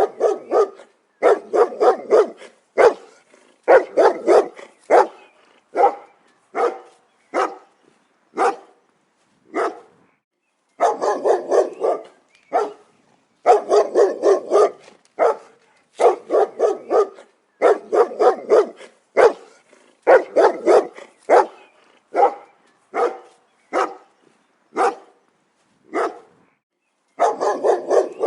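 Dog barking repeatedly in quick runs of short sharp barks, with brief pauses between the runs.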